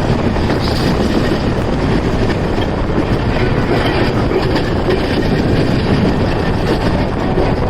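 Passenger train running on the rails, heard from aboard: a steady, loud rumble of wheels and coaches.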